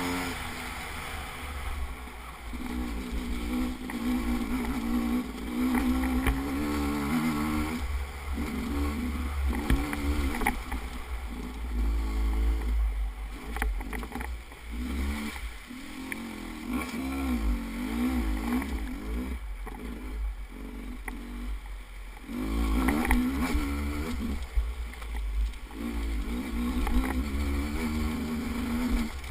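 Vehicle engine running, its pitch rising and falling as it changes speed, over a heavy low rumble with scattered knocks and jolts.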